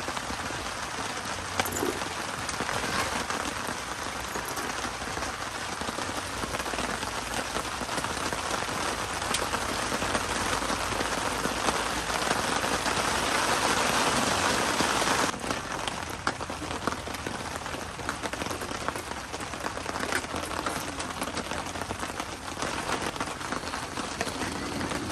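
Rain falling steadily, with many single drops ticking through it. It becomes somewhat quieter about fifteen seconds in.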